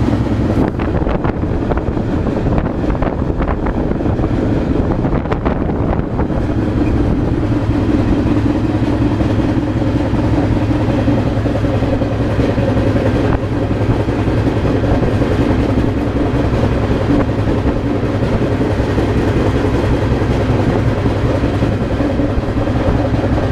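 Freight train running steadily: a continuous loud rumble and rattle of cars and wheels on the rails, with a few sharp clanks in the first several seconds.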